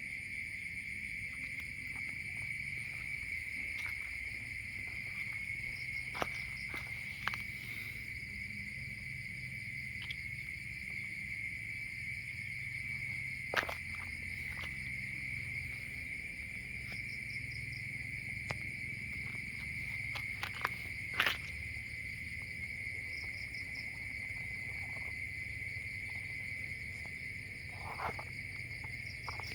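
Insects trilling as a steady high-pitched chorus, with a few sharp clicks scattered through it and a short, lower call near the end.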